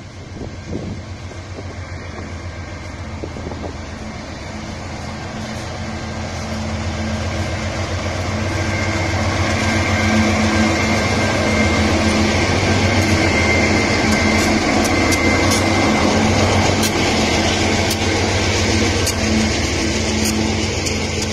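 Diesel-electric freight locomotives approaching and passing with a steady engine rumble that grows louder over about the first ten seconds. The hopper wagons behind them then roll by, with sharp clicks from the wheels in the second half.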